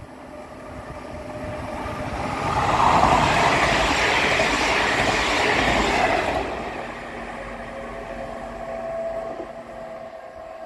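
Electric commuter train passing over a level crossing at speed: it grows louder over the first few seconds, is loudest for about four seconds as it goes by, then fades. The crossing's Vialis E-bell rings beneath it as a steady tone, heard more plainly after the train has passed.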